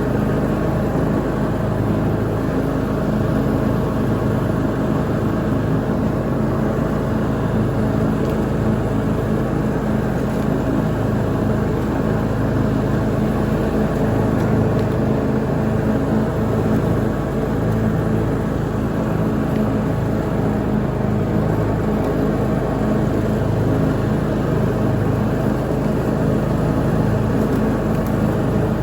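Lawn mower engine running steadily under mowing load, a continuous hum with a low droning tone.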